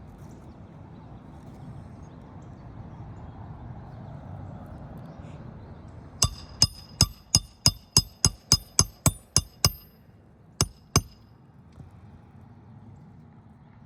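A hammer driving a roofing nail through a shingle: about a dozen quick, ringing blows at roughly three a second, then two more blows after a short pause to set the nail.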